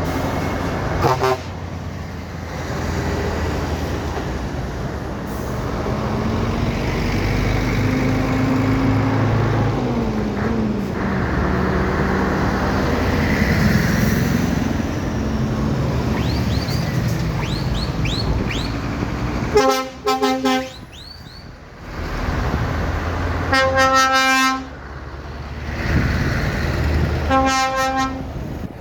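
Lorry engines running as a convoy passes, with a truck horn sounding three times, each blast about a second long, starting about two-thirds of the way through and again right at the end.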